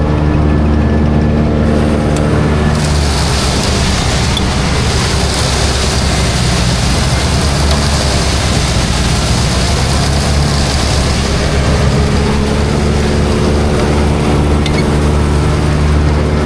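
Farm tractor engine running steadily under load, driving PTO silage-filling equipment. About three seconds in, a loud rushing hiss swells over the engine and eases off again after about eight seconds.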